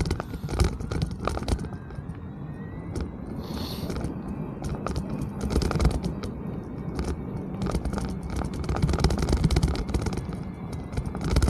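Mountain bike rolling over a rough trail: a steady low rumble from the tyres, with frequent clicks and rattling knocks from the bike over bumps.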